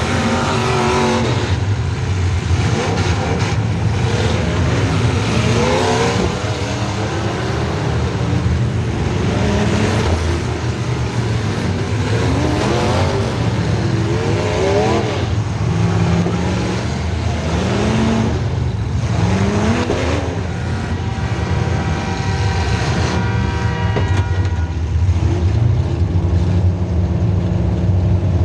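Demolition derby car's small-block Chevy V8 running loud, revving up again and again every two to three seconds, then holding a steadier note for the last several seconds.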